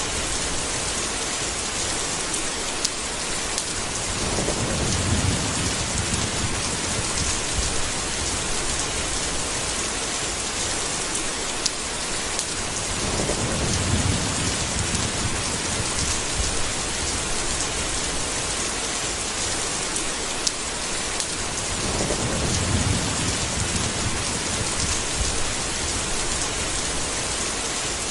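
Steady heavy rain with thunder: three low rolls of thunder swell and fade, about nine seconds apart.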